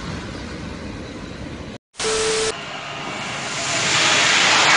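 Steady rumbling noise of a freight train passing. After a short break it changes to a loud hiss that swells over the last couple of seconds, from a passenger train on fire.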